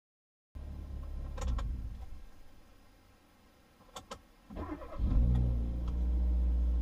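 A few clicks in the cabin, then the naturally aspirated Hyundai Veloster's 1.6-litre four-cylinder is cranked and catches about five seconds in, settling into a steady, deep idle through an aftermarket axle-back exhaust, heard from inside the cabin.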